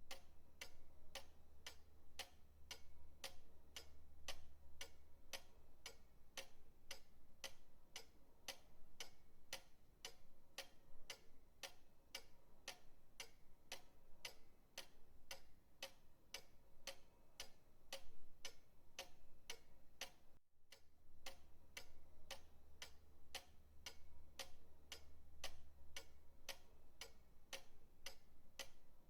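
Pendulum clock ticking evenly, about two ticks a second, with a faint low hum underneath and a brief break in the ticking about twenty seconds in.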